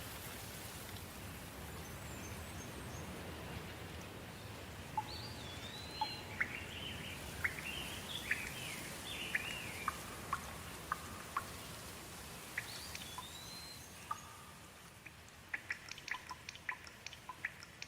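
Gentle rain falling as a steady hiss, with a bird calling in short chirps that glide up and down through the middle. Near the end the rain eases and single drops drip sharply, several a second.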